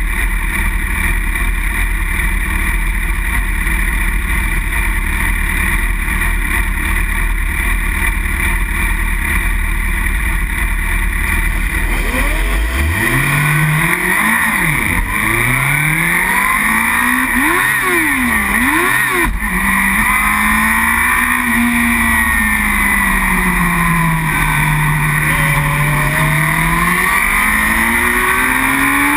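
Racing motorcycle engines: a steady mass of engine noise for the first dozen seconds, then one bike's engine climbs sharply in pitch, drops and climbs again several times in quick succession, and settles into slower rises and falls, with many other bikes' engines sounding around it.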